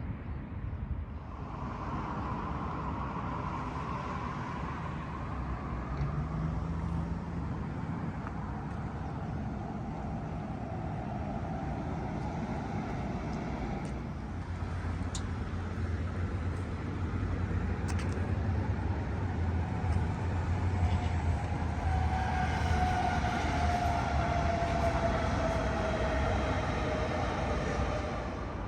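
Street traffic: a vehicle running past with a steady low rumble and a slowly falling whine, which returns louder near the end.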